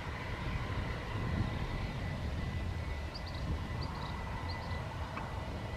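Aircraft engine running steadily at low power, a low rumble with a thin, steady high whine.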